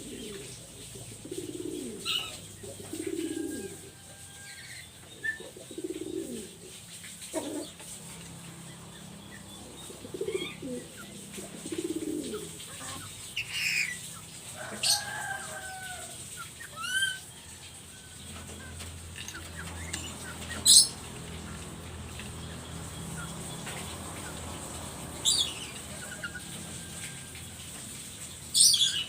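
Black-capped lory (nuri kepala hitam) vocalizing: a run of short, low chuckling sounds, then a handful of sharp, high, brief calls a few seconds apart, with one loud call standing out in the second half.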